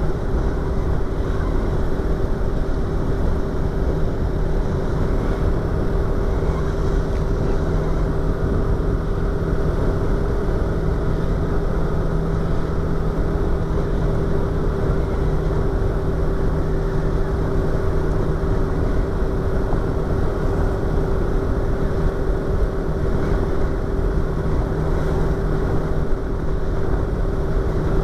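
Yamaha YZF-R25's 250 cc parallel-twin engine and exhaust running at a steady engine speed while riding, heard from inside the rider's helmet along with wind noise.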